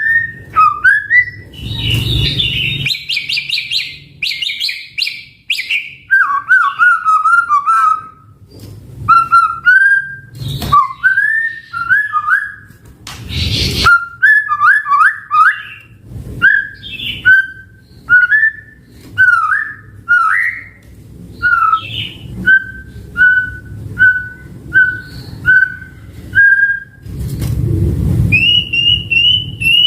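White-rumped shama (murai batu) singing a varied song of loud whistled phrases and glides, with a fast high trill a few seconds in. In the second half it gives a run of short clear whistles about one a second. A few brief harsh noisy bursts are mixed in.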